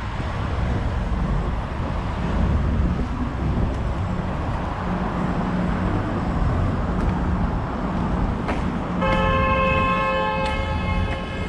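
Steady low rumble of engines and road traffic, then a vehicle horn sounds one long blast of about two seconds near the end.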